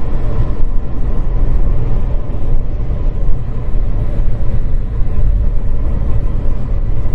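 Steady, loud engine and road rumble heard from inside a moving vehicle on the highway.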